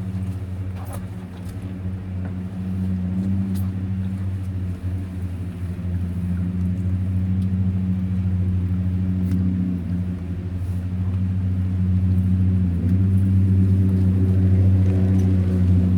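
A boat's engine droning steadily at a low pitch, growing louder over the second half as it draws nearer.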